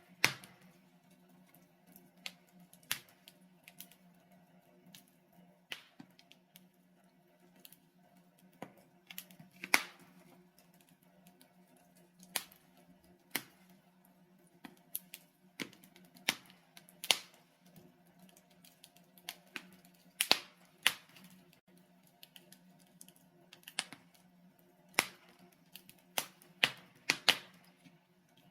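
Wood logs burning in a fireplace: irregular sharp crackles and pops, roughly one a second, some louder than others, over a faint steady low background.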